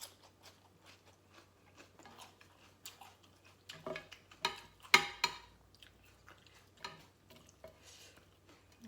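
A person chewing and crunching food close to the microphone: a run of short crisp crunches, loudest about five seconds in.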